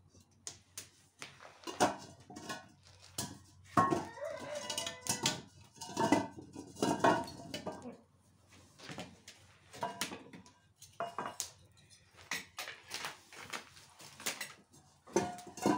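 Metal objects clattering and knocking as they are handled, a run of sharp clacks with some brief ringing, busiest about four to seven seconds in.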